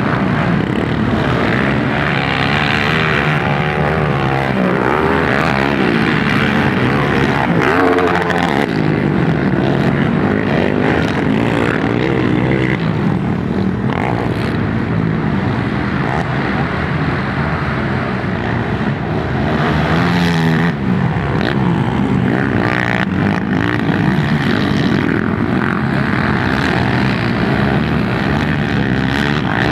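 Motocross dirt bike engines racing, revving up and down continuously, with several engines overlapping at times.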